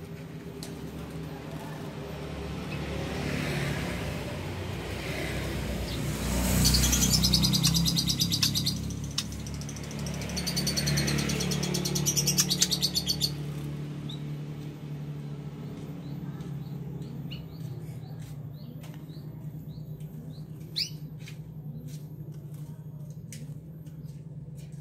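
White-rumped shama bathing in a water tray: two bursts of rapid wing-flapping and splashing, followed later by a few short chirps. A steady low hum runs underneath.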